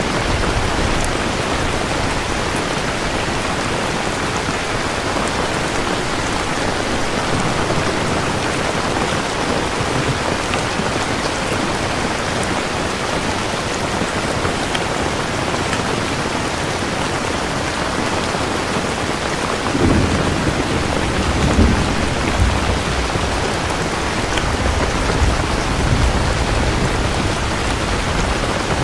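Steady heavy rain, with thunder rumbling in about two-thirds of the way through.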